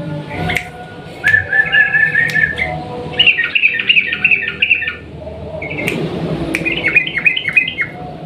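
Yellow-vented bulbul singing its long, rapid rolling song: three quick chattering phrases of bright notes, each lasting one to two seconds, with short pauses between.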